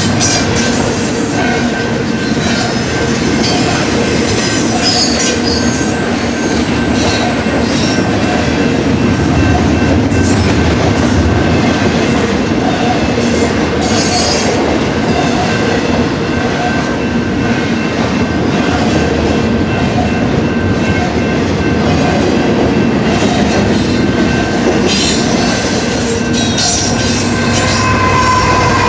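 Double-stack container well cars of a long intermodal freight train rolling past: a steady loud rumble and rattle of steel wheels on rail, with thin high wheel squeals running through it.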